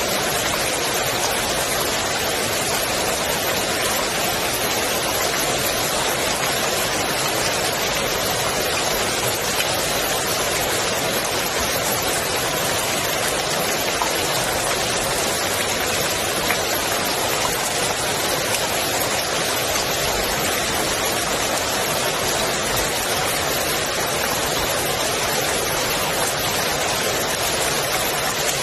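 Steady rain falling on the water of a swimming pool: an even, unbroken hiss of many small drops.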